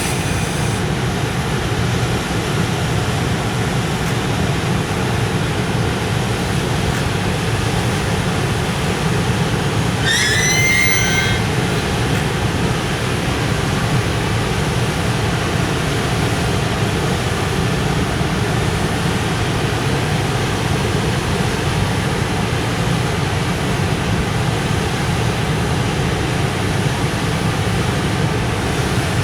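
Departing freight train of container flat wagons hauled by an EF510 electric locomotive, its wheels rolling over the rails in a steady low rumble. A brief high squeal about ten seconds in.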